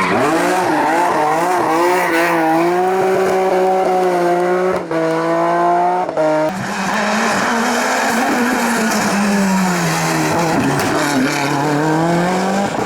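Competition car engine revving hard at full throttle, its pitch climbing and dropping with gear changes, with brief cuts in the sound about five and six seconds in.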